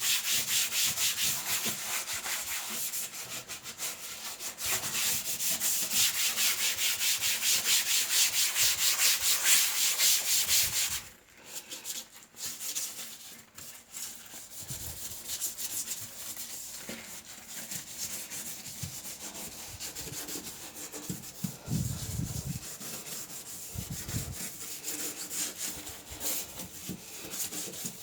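Hand scrubbing of a surface during cleaning, in fast, even back-and-forth strokes. About 11 seconds in it stops abruptly and gives way to quieter, irregular wiping and rubbing with a few soft knocks.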